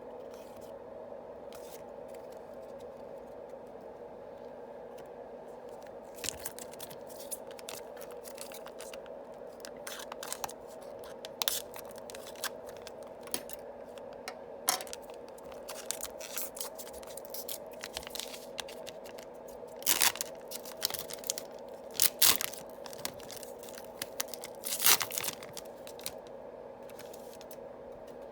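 Yu-Gi-Oh booster pack wrappers being torn open and crinkled by hand, with cards handled in between. There is a run of irregular sharp rips and crackles, the loudest clusters in the later part, over a steady low hum.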